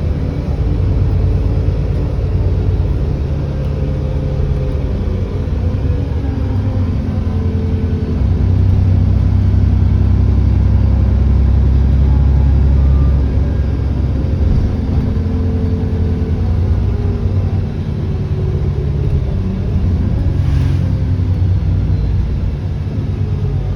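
Alexander Dennis Enviro400 double-decker bus's diesel engine running on the move, its note climbing and then dropping several times as it pulls through the gears, with a faint turbo whine above it.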